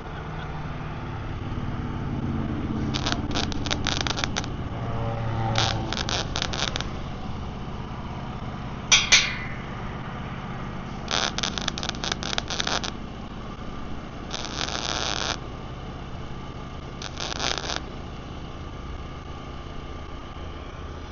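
Arc welding in short runs: about six bursts of dense crackling, each a second or two long, with pauses between, over a steady low engine hum.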